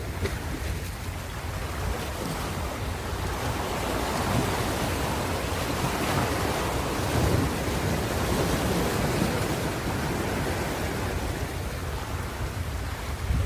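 Ocean surf: waves breaking and washing in a continuous rush that swells and eases, with a low rumble and some wind noise on the microphone.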